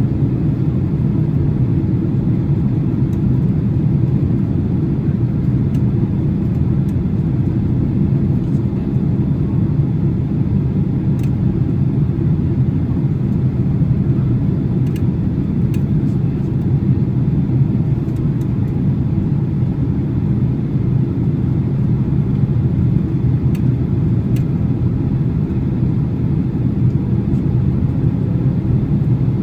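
Steady cabin noise inside a Boeing 767-300 on approach: a low rumble of engines and airflow, with faint clicks here and there.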